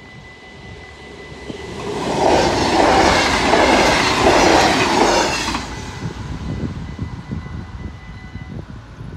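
A yellow-and-blue NS double-deck passenger train passes over a level crossing. Its wheel and rail noise builds about two seconds in, peaks for about three seconds and fades away by about six seconds. The crossing's steady electronic warning bell rings underneath and stops near the end.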